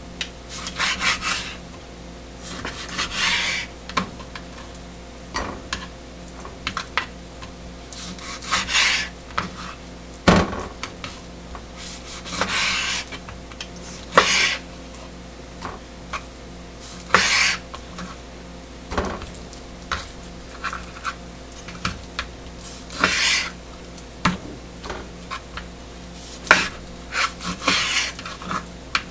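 Kitchen utensils scraping and rubbing against a bowl or board in irregular strokes, with a few light clicks and knocks. A steady low hum runs underneath.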